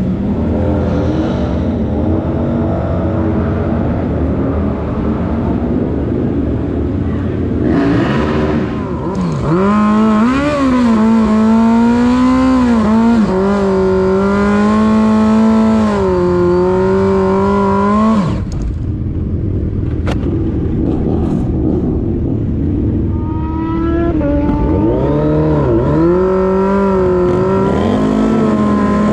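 A motorcycle engine at a drag strip idling, then revved up and held high for about ten seconds, its pitch rising and dipping with the throttle, before it drops off suddenly. It is revved again for the last few seconds.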